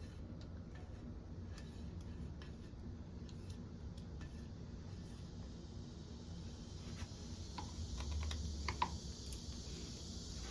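Scattered light clicks and taps of handling and tool noises over a steady low hum, with a cluster of sharper clinks about eight to nine seconds in.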